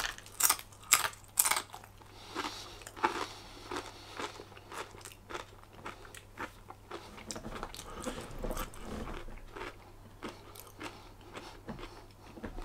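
Close-up crunching and chewing of crisp food in the mouth: a quick run of sharp crunches in the first couple of seconds, then slower, scattered crunches as the chewing goes on.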